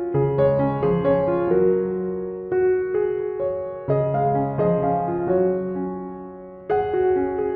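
Background piano music: gentle chords and melody notes that ring and fade, with a pause and a fresh chord near the end.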